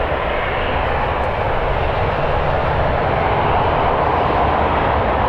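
Jet airliner engines running with a steady rush that grows slightly louder, over a gusty low rumble of strong wind buffeting the microphone.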